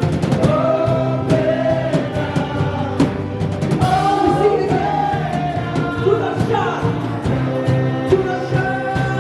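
Live worship band playing, with several voices singing long held notes over drums and cymbals keeping a steady beat.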